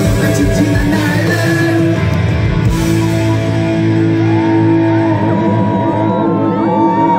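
A live punk rock band plays loud through a PA: electric guitars, bass and drums. The drums drop out about three seconds in, leaving held, ringing chords.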